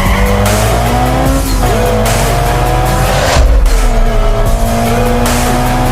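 Dubbed-in racing engine sound effect, revving up in repeated rising runs like gear changes, over background music.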